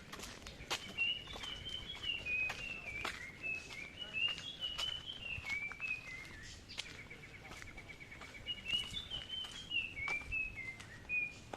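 A songbird singing repeated phrases of short whistled notes that step up and down, with a steady trill about seven seconds in. Footsteps crunch on a steep hill path throughout.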